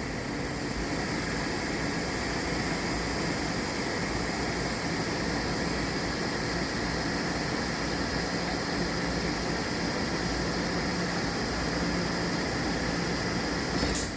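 Takamaz J-Wave PLUS gang-type CNC lathe running a machining cycle: a steady mechanical hum and whine over a hiss, which cuts off suddenly near the end.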